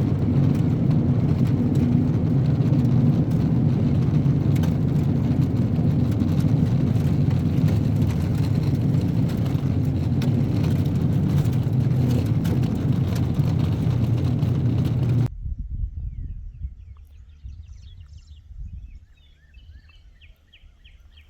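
Steady road and engine noise of a vehicle driving at speed, with no change in pace. It cuts off suddenly about 15 seconds in, giving way to a quiet outdoor background with a low rumble and faint high chirps.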